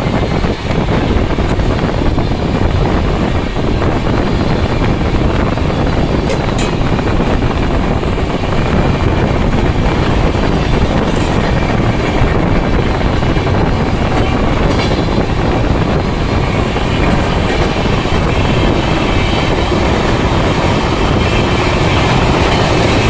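Passenger trains running at speed on parallel tracks, heard from the open doorway of one: a loud, steady rumble and rattle of wheels on rails, with a few faint sharp clicks.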